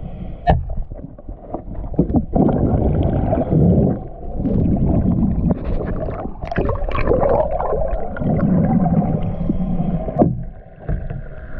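Noise of a boat on the water: a motor running with water gurgling and churning, uneven in level, dipping briefly twice.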